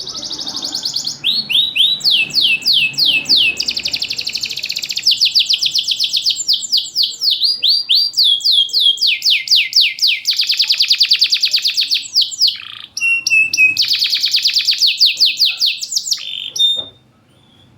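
Domestic canary singing one long, loud song of rapid trills and repeated notes, switching from phrase to phrase with barely a pause, then stopping just before the end.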